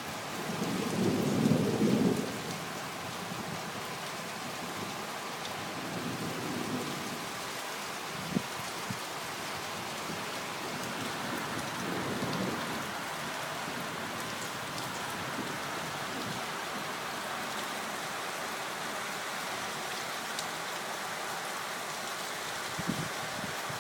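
Steady rain during a thunderstorm, with rolls of thunder: the loudest about a second in, fainter ones around six and twelve seconds in. A couple of short sharp knocks stand out over the hiss of the rain.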